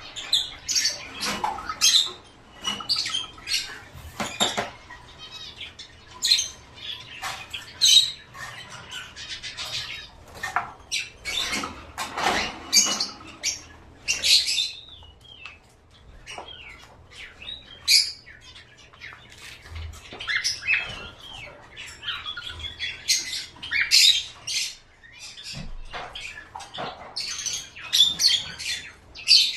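Several caged birds calling constantly, a dense, irregular stream of short, high-pitched calls and chirps overlapping one another.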